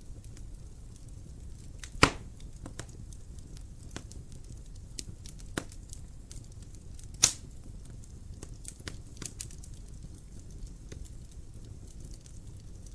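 Wood fire in a fireplace crackling over a steady low rumble of flame, with scattered small snaps and two loud pops, about two seconds in and about seven seconds in.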